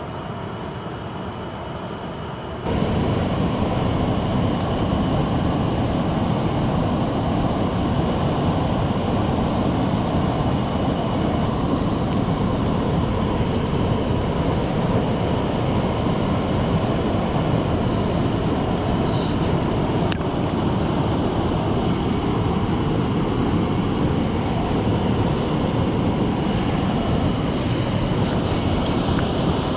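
Steady rush of a mountain stream's flowing water. It jumps louder about three seconds in and then holds steady.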